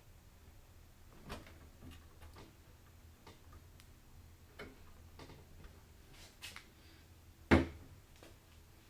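Hands handling PC parts and hardware, making scattered light clicks and taps with one much louder knock about seven and a half seconds in.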